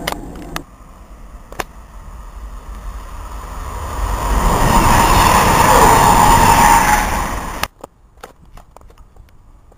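Virgin Voyager diesel multiple unit approaching and passing at speed: a rushing noise that builds for a few seconds to a loud pass with a steady tone in it, then cuts off suddenly; afterwards only faint background with a few light knocks.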